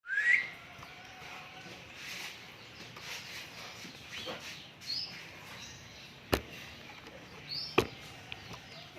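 White-eye (pleci) calling: a string of short, high chirps and quick rising notes, the loudest right at the start. Two sharp clicks cut in past the middle.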